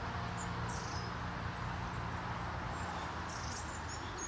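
Scattered small bird chirps over a steady outdoor hiss, with a low held note of background music dying away about three seconds in.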